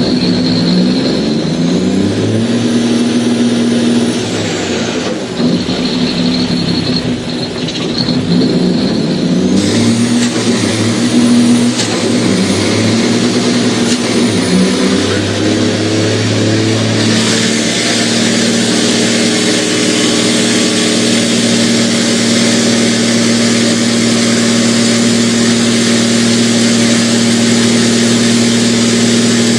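Diesel truck engine revving hard during a burnout, run up through the gears of a manual transmission in steps over the first seventeen seconds or so, then held at a steady high rev with a dense hiss over it.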